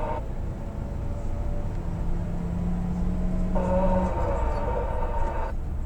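Steady low engine and road rumble of a moving truck, heard from inside the cab. Midway a higher-pitched sound breaks in for about two seconds and then cuts off sharply.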